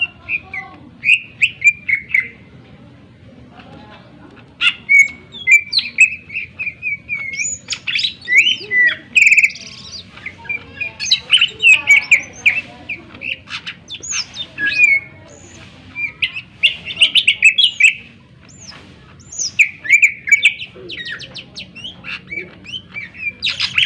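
A cucak ijo (greater green leafbird) singing loudly in rapid bursts of sharp chirps, whistles and trills, broken by short pauses. Its song mixes in phrases mimicked from other birds.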